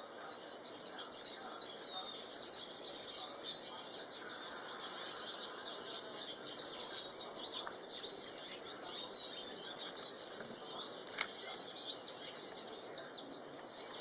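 Goldfinches twittering and calling, many short, quick chirps overlapping one another, over a steady background hiss.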